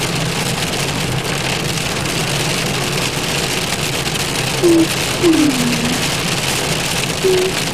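Rain hitting a car's roof and windshield, heard from inside the cabin, with the engine running low underneath. In the second half, three short pitched sounds stand out above the rain, one of them falling in pitch.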